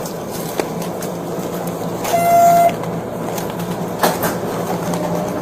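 Steady low hum of a light rail train, with a single short horn blast of about half a second, two seconds in, and a sharp click near the end.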